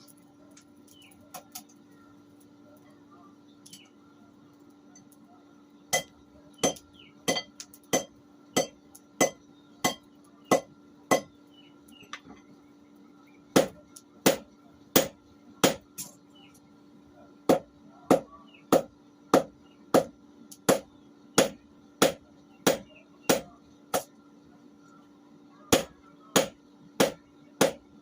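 Blacksmith's hand hammer striking a steel blade blank on an anvil, forging it out in runs of evenly paced ringing blows, about one and a half to two a second, with short pauses between runs. The blows begin about six seconds in; a faint steady hum lies underneath.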